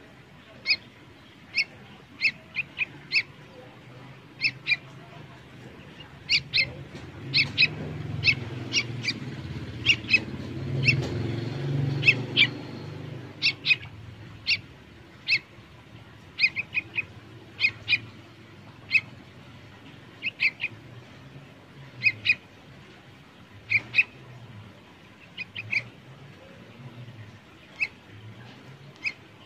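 A bird chirping: short, sharp chirps repeated one or two a second, often in quick pairs. A low rumble swells and fades in the middle.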